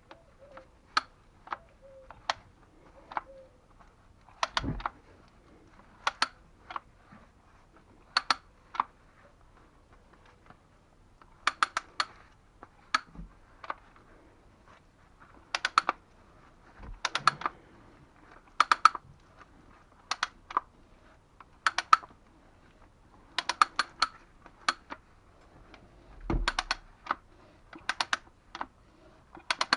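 Sharp clicking in quick clusters of two to five clicks, repeating irregularly every second or so, with a few duller knocks among them.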